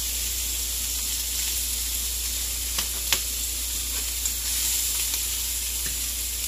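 Shrimp sizzling in oil in a nonstick frying pan: a steady hiss with a few sharp clicks and pops, the loudest about three seconds in.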